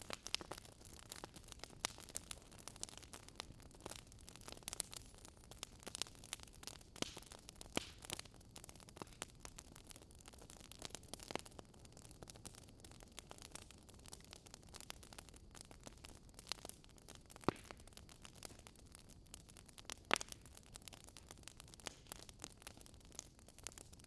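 Wood fire crackling: irregular sharp pops and snaps over a faint steady hiss, with a couple of louder pops in the second half.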